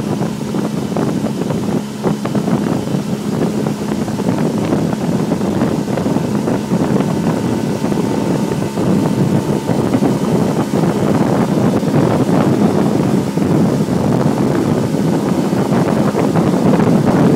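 Motorboat engine running steadily under way, with wind buffeting the microphone and water noise; a low hum is strongest in the first few seconds.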